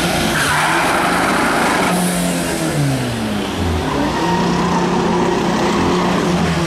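Drag-race car engines revving and accelerating hard, the engine pitch sliding up and down.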